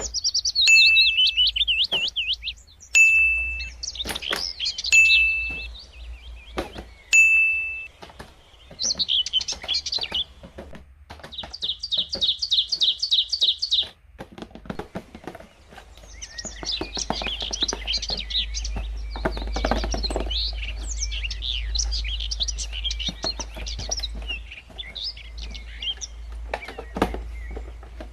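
Birds chirping and singing: repeated whistled phrases early on, a fast even trill, then a busy chatter of several birds. A few sharp knocks sound in the first several seconds.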